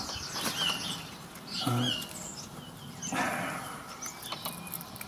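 Garden songbirds chirping in short high calls, with a few faint clicks and scrapes of a small tool working at the aluminium brake caliper.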